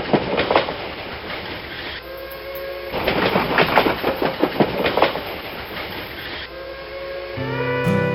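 Vintage steam train's wheels clattering over rail joints in rhythmic clusters of clicks, with a steady pitched tone in between. Slide-guitar music comes in near the end.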